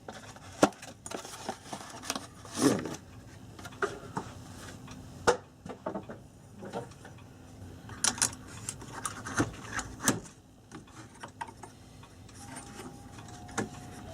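Irregular small clicks, taps and knocks of hands handling parts inside a clock case while a fluorescent circline bulb and its wiring are fitted, with a few louder knocks about 2.5, 5 and 8 seconds in.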